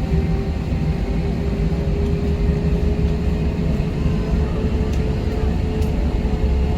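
Airliner cabin noise before takeoff: a steady low rumble from the engines and air conditioning, with a steady hum tone that slowly rises a little in pitch. A couple of faint clicks about five and six seconds in.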